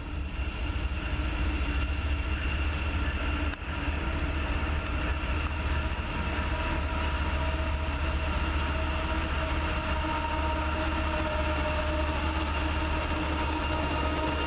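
Freight train passing, a steady low rumble of the train with several steady high tones that grow louder toward the end.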